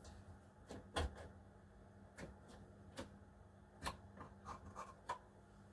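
Faint light clicks and taps of a homemade pit wall piece being handled and set into place on a slot car track: about half a dozen sharp ones at uneven intervals, the loudest about a second in.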